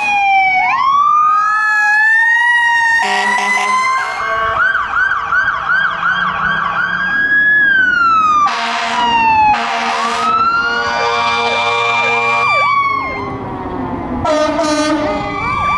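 Emergency vehicle sirens responding: a wail that rises and later falls, with a fast yelp cycling a few times a second in between and overlapping sirens near the middle. Short air-horn blasts cut in three times, about 3, 8.5 and 14.5 seconds in.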